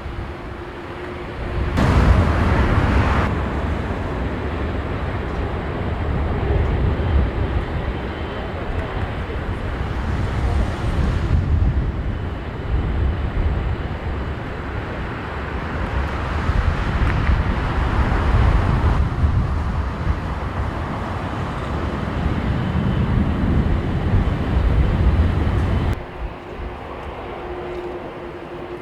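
Jet airliner flying low overhead on final approach, its engine noise mixed with strong gusting wind buffeting the microphone. The sound cuts off abruptly near the end.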